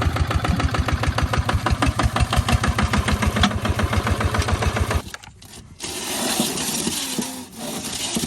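Tractor engine running with a rapid, even chugging beat, cutting off abruptly about five seconds in; a quieter rushing noise follows.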